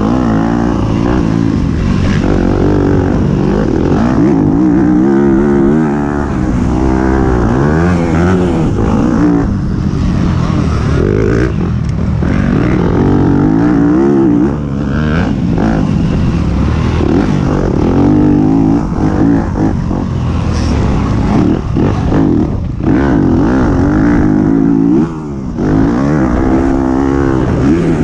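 Several race motorcycle engines revving hard and dropping back again and again, their pitches rising and falling and overlapping as the bikes race past.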